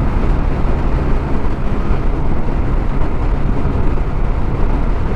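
TVS Scooty Zest scooter riding at highway speed: steady wind rush over the rider's microphone with the scooter's engine and road noise underneath.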